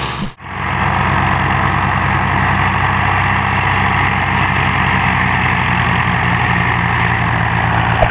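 A diesel tractor engine running steadily under a wide hiss, broken by a brief dropout less than half a second in.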